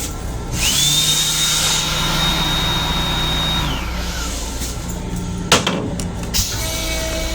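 An electric motor in the train restroom, a hand dryer or the toilet's flush mechanism, whines up and runs with a loud rush of air for about three seconds, then winds down. A sharp click and a knock follow, then steady tones begin near the end.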